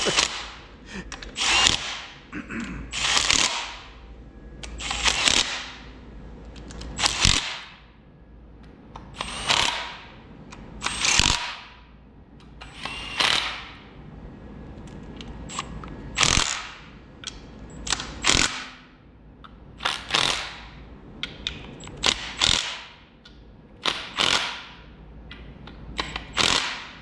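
Socket ratchet tightening bolts on an engine, in a series of short rasping strokes about every two seconds; the bolts are being snugged by feel rather than with a torque wrench.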